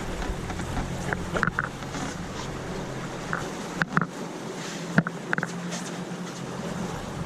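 Boat engine running with a steady low hum, with a few sharp clicks and knocks from rigging tackle being handled.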